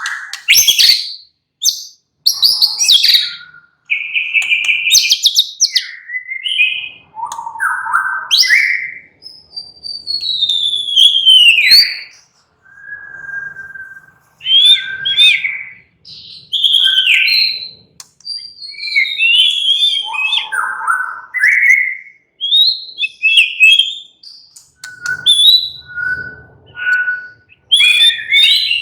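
White-rumped shama singing a varied song of loud whistled phrases, with sweeping and gliding notes broken by short pauses. Near the end comes a run of short repeated notes.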